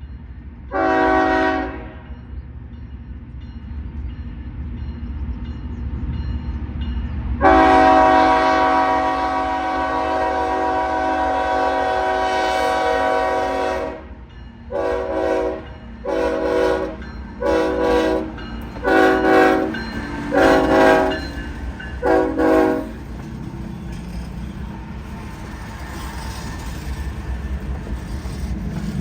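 Locomotive air horn sounding at a level crossing: one short blast, then a long blast of about six seconds, then a string of about eight short blasts. After the horn stops, the rumble of the train grows louder near the end.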